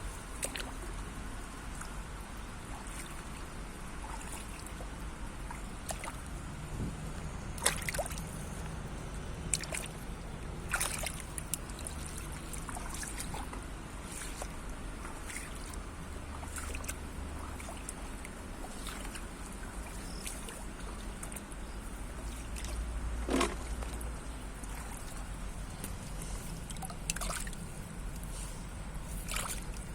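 Shallow rice-paddy water trickling and sloshing as hands search through the mud, with scattered short splashes and drips at irregular moments.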